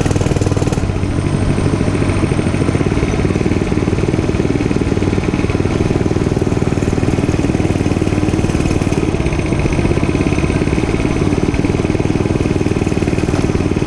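Dirt bike engine running steadily, holding a fairly constant pitch.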